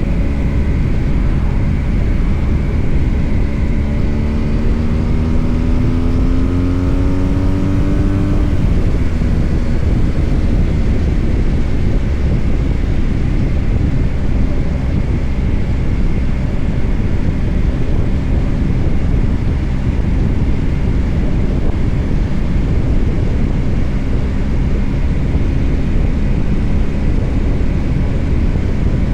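BMW R1250 GS Adventure boxer-twin engine under way, mostly buried under steady wind and road rush. About four seconds in, the engine note climbs for a few seconds as the bike accelerates, then drops back under the wind.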